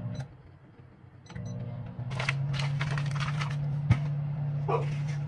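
Microwave oven set running: a few short keypad beeps, then the oven's steady low hum starts and holds. Some rustling and a sharp click sound over the hum.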